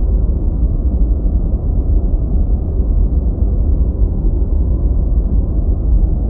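Steady deep white noise, a synthetic hiss weighted heavily toward the bass, with almost nothing above the upper midrange. It holds the same level throughout.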